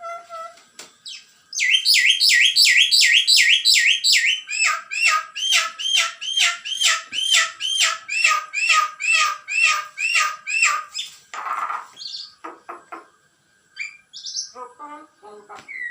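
Myna chick calling loudly in a fast, even run of repeated high chirps, about three to four a second, for roughly nine seconds, then a short rasp and a few scattered calls.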